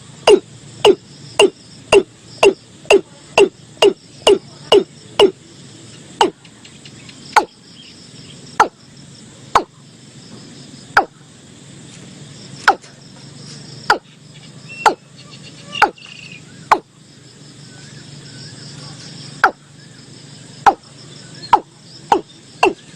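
Watercock calling: a series of loud, short, hollow notes, each dropping in pitch. They come about two a second at first, slow to an irregular one a second or less through the middle, and quicken again near the end. A faint steady insect hum lies underneath.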